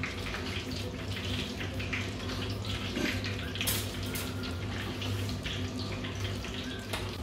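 Close chewing of a crunchy cornflake-breaded fried chicken strip: irregular crisp crackles and crunches, over a steady low hum.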